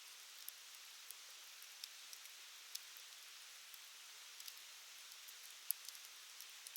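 Wood fire crackling: a faint steady hiss with irregular sharp pops and snaps, one louder pop late on.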